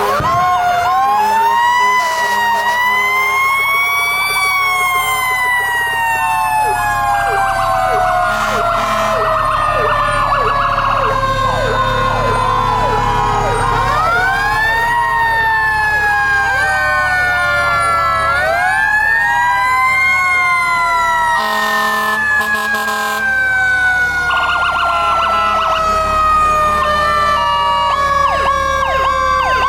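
Fire truck sirens: a mechanical siren winds up quickly and coasts slowly down, winding up again about three times, overlapped by faster electronic siren sweeps and a few steady horn tones, over the low rumble of truck engines.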